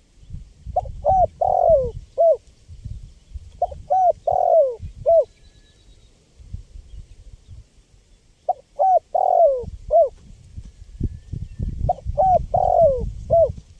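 Spotted dove (tekukur) cooing: four repeated phrases, each a quick run of four or five short arching coos, a few seconds apart, over a low rumble.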